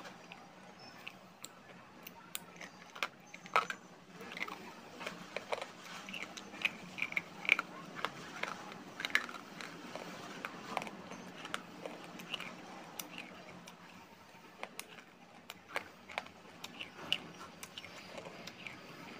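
Close-up crunching and chewing of a lump of dried clay (mitti): a run of sharp, irregular crunches with quieter chewing between them. The crunches are thickest through the middle and loudest about 3.5 and 7.5 seconds in.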